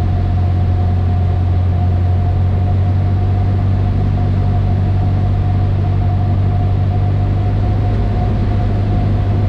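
Cessna 152's four-cylinder Lycoming O-235 engine and propeller running at a steady, unchanging speed, a loud continuous drone with a deep hum and a steady higher tone over it.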